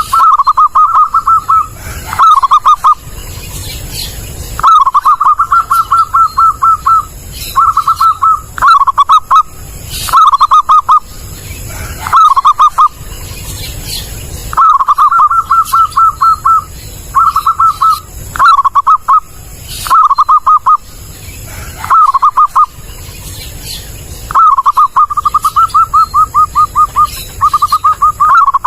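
Zebra dove (perkutut) cooing loudly and clearly, in repeated phrases of rapid staccato notes separated by short pauses.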